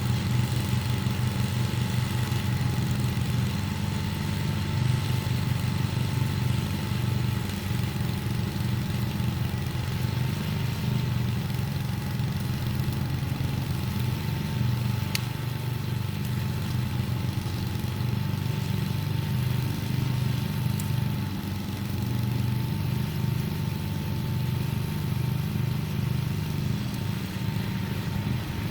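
Engine running steadily at low speed, with a thin steady whine above it and a single faint click about halfway through.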